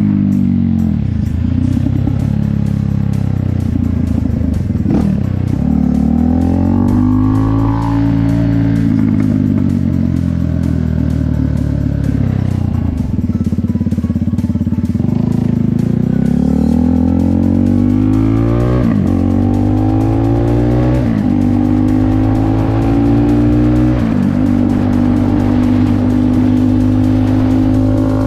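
KTM motorcycle engine under way, its pitch climbing as it accelerates and dropping off again and again through the ride.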